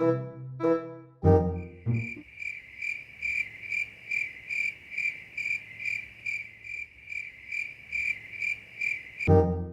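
Cricket chirping steadily, about three chirps a second, starting and stopping abruptly as an edited-in comic 'silence' sound effect. Brass comedy music plays for the first second or so and cuts back in near the end.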